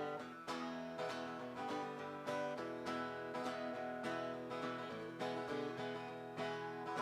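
Acoustic guitar strumming chords in a steady country rhythm, about two strums a second: the instrumental intro of a song before the singing starts.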